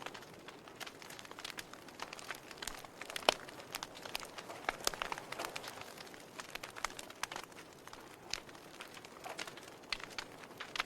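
Wood fire burning in a fireplace, crackling steadily with irregular sharp pops over a soft hiss; the loudest pop comes about three seconds in.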